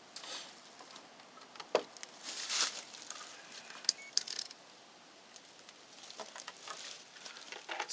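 Handling noise from working wires and meter test probes: rustling and a few sharp clicks, with a brief faint high tone about four seconds in.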